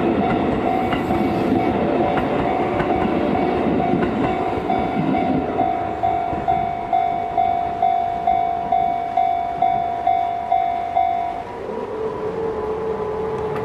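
Shin-Keisei 8800 series electric train running over rail joints past a level crossing, while the crossing's electronic warning bell rings, pulsing about twice a second. The train fades after about five seconds, leaving the bell, which stops about eleven and a half seconds in as the crossing clears; a lower steady tone follows.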